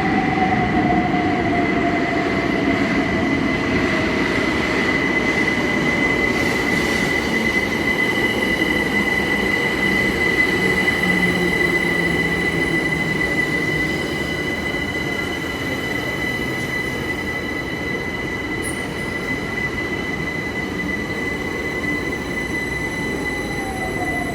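Electric passenger train in a station: a steady high-pitched wheel squeal over the running noise, with a lower whine gliding slowly down in pitch. The whole sound eases a little past the halfway point.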